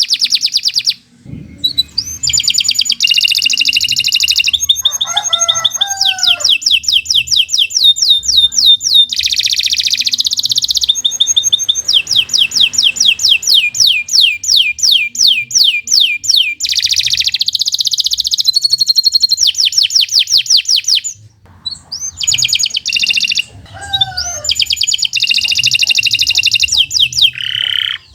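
Domestic canary singing a long, fast song: high trills and rapidly repeated notes in quick succession, broken by short pauses about a second in and again about three-quarters of the way through.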